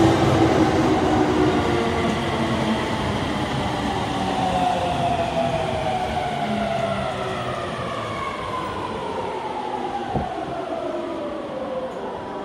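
JR Yamanote Line E231-series electric train braking into a station platform. Its motor whine falls steadily in pitch as it slows, over the rumble of the cars rolling past, with a single knock about ten seconds in.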